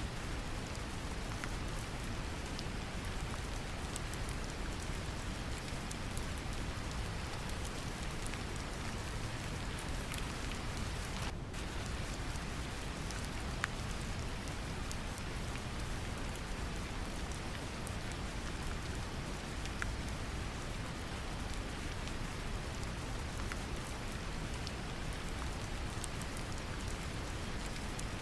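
Synthetic brown noise, a deep steady rumble, layered with gentle rain, with scattered tapping of individual drops. The upper hiss dips for a moment about eleven seconds in.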